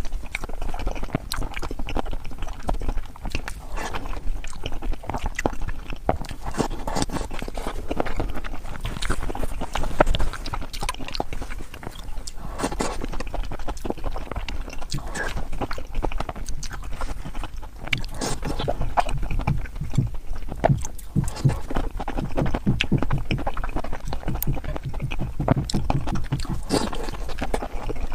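Close-miked eating sounds: a person chewing and smacking food in the mouth, a dense run of short wet clicks that now and then comes quicker.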